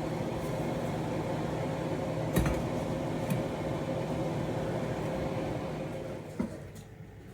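Steady motor hum of a kitchen appliance, with two light clinks a second apart. The hum cuts off with a click about six seconds in.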